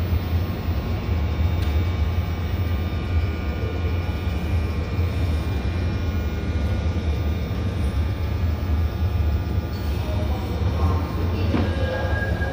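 Seoul Subway Line 1 electric commuter train running into the station: a steady low rumble, with a high steady tone joining near the end as it comes alongside the platform.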